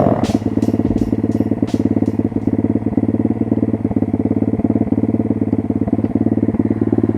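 Single-cylinder four-stroke pit bike engine idling steadily at an even pitch.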